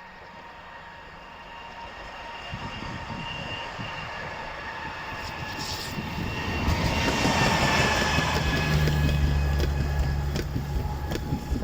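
Strizh high-speed train, an electric locomotive hauling Talgo coaches, approaching and passing close by, growing steadily louder over the first seven seconds. Its steady whine dips slightly in pitch as it goes by, a deep hum sets in, and the wheels click over rail joints near the end.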